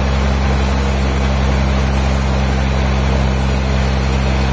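A machine engine running steadily at one constant speed, with a loud low hum and no changes.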